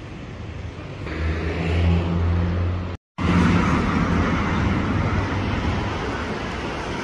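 Ferrari 812 Competizione's V12 engine running with a steady low hum, growing louder about a second in. After a short break, busy city road traffic: cars driving past.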